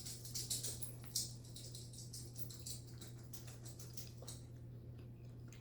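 Soft chewing and mouth sounds of someone eating pot pie: small wet clicks and smacks, a few louder ones in the first second or so, over a steady low hum.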